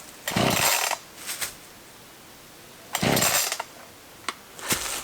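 Black Max 16-inch chainsaw's pull-start cord yanked twice, each pull a short whirring rush, with no engine catching. A few light clicks follow near the end.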